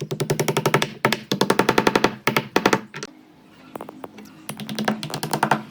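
A power tool hammering rapidly in several short bursts over a steady low hum, each burst lasting about half a second to a second.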